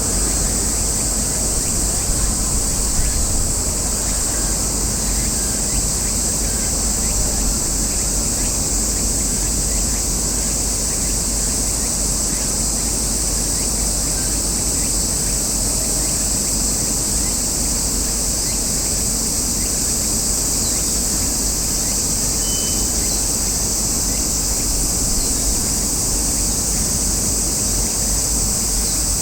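Steady high-pitched drone of a chorus of insects, with a low rumble of wind or distant traffic beneath it.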